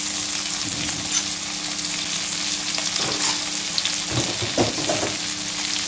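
Sliced red and green chillies and shallots sizzling steadily in hot oil in a wok, with a metal spatula scraping and stirring them against the pan a few times in the second half.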